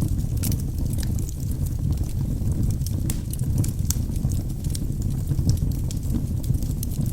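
Wood logs burning in a fireplace: a steady low rumble of the flames with frequent small crackles and pops from the wood.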